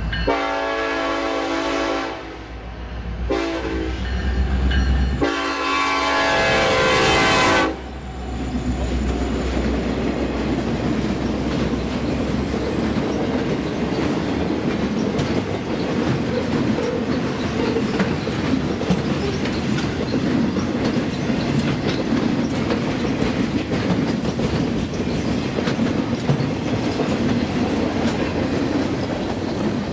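BNSF diesel locomotive leading a maintenance-of-way train sounds its horn for the grade crossing in two long blasts, the second ending about eight seconds in. The train then passes close by, its wheels clattering steadily over the rails.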